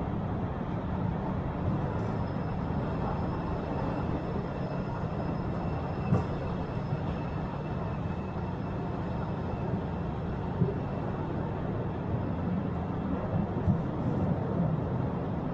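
Open-carriage cave tourist train running through the cave passages: a steady low rumble of the carriages on the rails, with a few light clicks.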